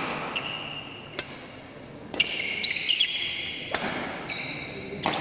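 Badminton doubles rally: sharp racket hits on the shuttlecock about every one to one and a half seconds, with shoe squeaks on the court floor between them, echoing in a hall.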